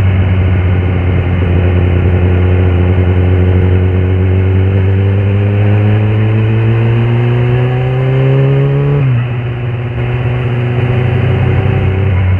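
Kawasaki ZX-10R SE's inline-four engine running under steady load, its pitch climbing slowly for several seconds. About nine seconds in, the pitch drops suddenly and then holds steady at a lower note.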